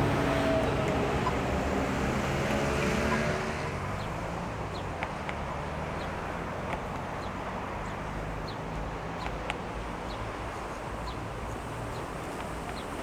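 A vehicle passes with a falling whine, loudest for the first three seconds or so. It then fades to a low steady rumble with scattered faint clicks.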